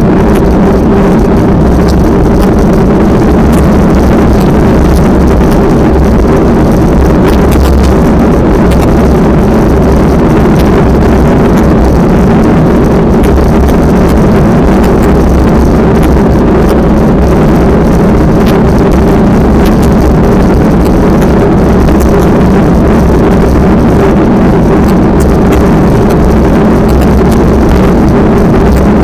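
Strong wind buffeting the microphone: a loud, steady rumble with a constant drone underneath and no let-up.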